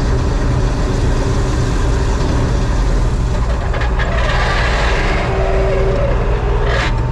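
John Deere 4400 combine's engine running steadily at a constant speed. A hiss comes in about four seconds in and ends with a short sharp burst near the end.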